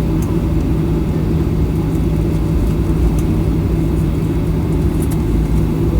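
Cabin noise inside a Boeing 737-800: a steady, loud rumble of the jet engines and airflow with a constant low hum, and a few faint ticks of cabin fittings.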